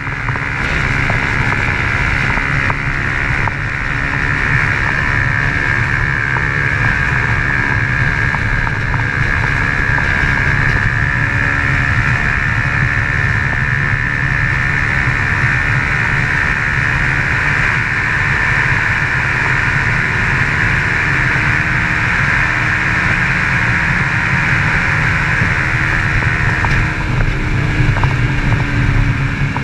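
Honda CG Titan 150 motorcycle's single-cylinder four-stroke engine running steadily through an aftermarket Fortuna exhaust while riding, with wind on the microphone. The engine note falls slightly near the end.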